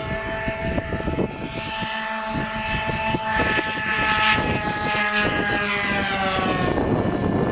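Model airplane's propeller engine running steadily, then dropping in pitch about six seconds in as it throttles back to land. Wind buffets the microphone with a low, gusty rumble throughout.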